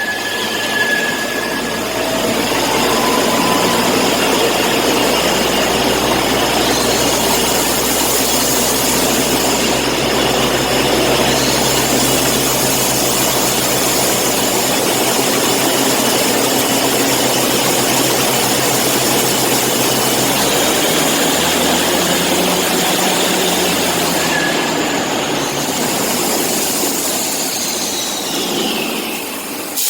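Truck-mounted borehole drilling rig running steadily and loud: engine drone under a high hiss of machinery. The low engine note shifts about two-thirds of the way through, and a short falling whistle sounds near the end.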